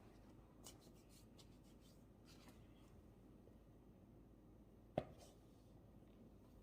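Faint scratching of a pen writing on paper in short strokes, with one sharp tap on the desk about five seconds in.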